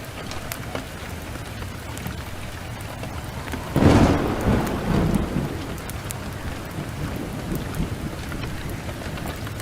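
Steady heavy rain, with a sudden thunderclap about four seconds in that rumbles away over a couple of seconds.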